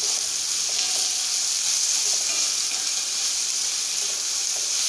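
Sliced shallots and green chillies sizzling steadily in hot coconut oil in an aluminium kadai, stirred with a spatula that scrapes the pan now and then. The onions are being fried until they soften and brown.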